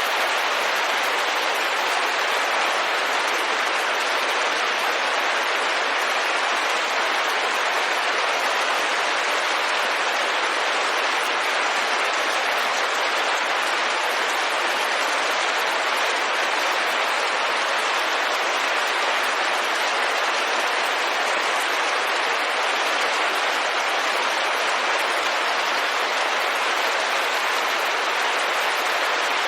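Steady, unchanging rain on a window: a dense, even patter.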